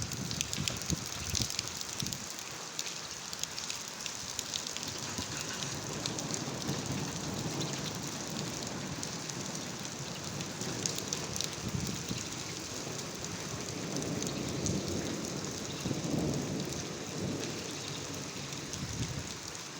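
Steady rain falling, with a dense patter of drops hitting surfaces. Low rumbles swell up a couple of times in the latter half.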